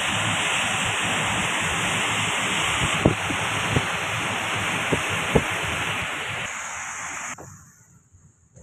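Steady rushing hiss of rain and tyres on a wet road, heard from inside a moving car, with a few sharp taps. The noise drops away suddenly near the end.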